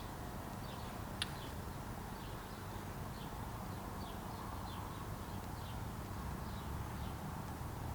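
Faint steady low hum of background ambience, with one light click about a second in and faint short high chirps repeating every second or so.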